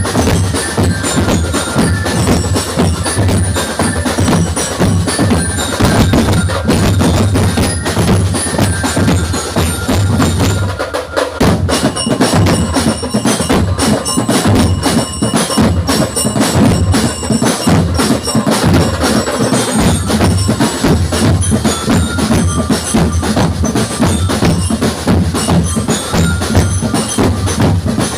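Percussion band music: a steady drum beat with a ringing, bell-like melody on mallet instruments, and a brief break about eleven seconds in.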